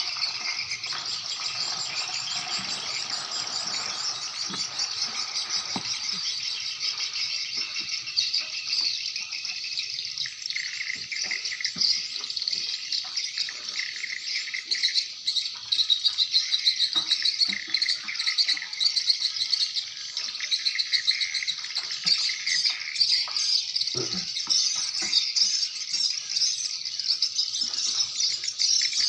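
Swiftlet calls: a dense, unbroken chatter of high chirps and trills, getting louder about halfway through. It is the kind of swiftlet lure call (suara panggil) played to draw birds into a swiftlet house.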